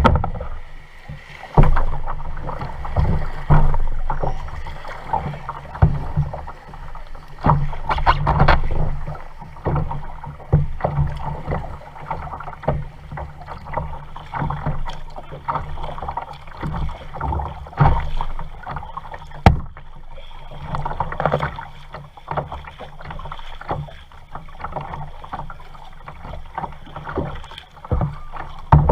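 Kayak being paddled: irregular splashes of the paddle in the water and sharp knocks, over a steady low rumble.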